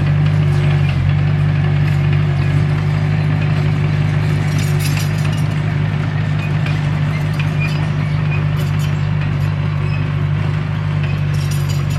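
Komatsu D21P bulldozer's diesel engine running steadily, with a few faint clanks about halfway through and near the end.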